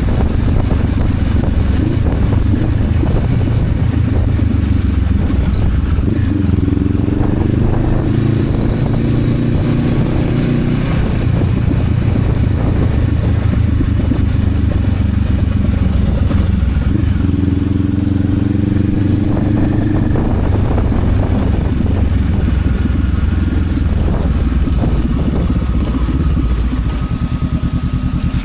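Honda CB500X's parallel-twin engine running steadily as the motorcycle rides, its note rising and falling a couple of times.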